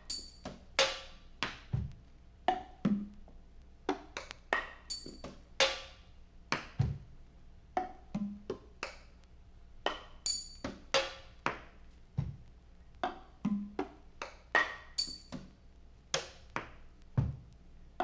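Instrumental band music made mostly of percussion: an irregular run of sharp, knocking strikes, several a second, many of them ringing briefly in a pitched tone, with a deep low thump about every five seconds.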